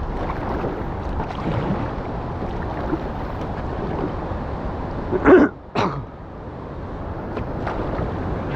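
River water rushing steadily near a small weir, with wind on the microphone. About five seconds in come two short, loud bursts about half a second apart.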